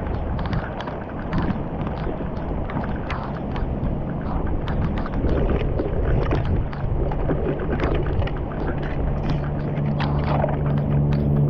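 Floodwater rushing and splashing at a clogged street culvert, with many short sharp clicks. A steady low hum comes in about three seconds in and grows louder toward the end.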